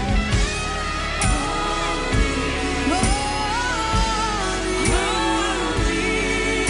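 Live worship band music: a sustained bass, drum beats about once a second, and a voice singing a wordless, sliding melody.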